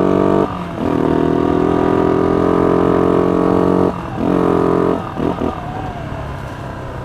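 Used ATV engine running under throttle as the machine is driven. The note dips briefly twice, about half a second and about four seconds in, then falls to a lower, quieter steady note about five seconds in.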